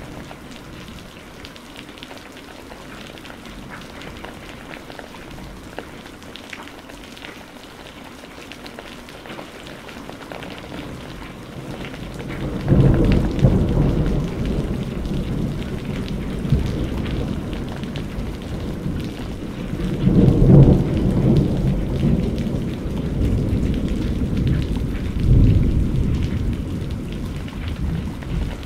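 Steady rain falling. A little before halfway, a long low roll of thunder begins and rises to three loud peaks, then eases off near the end.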